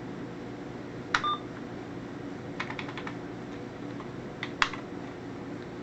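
Keys being pressed on the HP-85 computer's keyboard. About a second in there is a click with a short beep, then a few more key clicks near the middle and again later, over a steady low hum.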